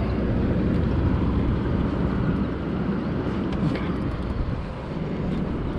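Steady low rumble of wind buffeting the microphone out on the water, with a few faint clicks.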